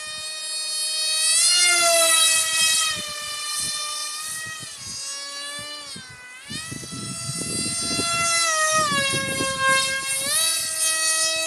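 Electric motor of a hand-built foam RC F-22 model plane whining in flight, its pitch rising and falling several times as the throttle changes. Low rumbling noise joins it in the second half.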